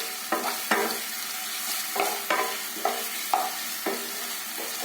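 Chopped garlic, ginger and green chilli sizzling in hot oil in a kadai as a spatula stirs them, with a steady sizzle and repeated scrapes and clinks of the spatula against the pan.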